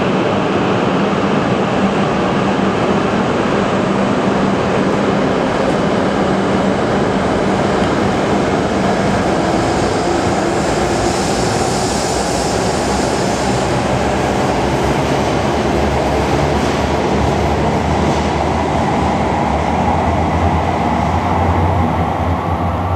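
Tohoku Shinkansen train running along the station platform: a loud, steady rush of wheel and air noise.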